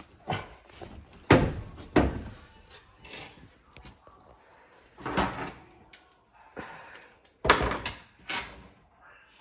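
A string of sharp knocks and bangs from work on a washing machine's door and body while a new door seal is being fitted. There are about seven hits at uneven intervals, the loudest about a second in and again near the end.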